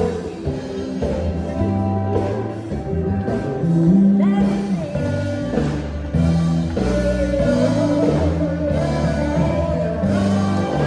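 Live sacred steel gospel band playing, with the steel guitar's sliding notes over a heavy bass line.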